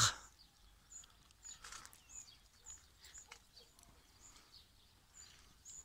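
Small birds chirping in brush, short high calls repeated every half second or so, with faint footsteps on a dirt path.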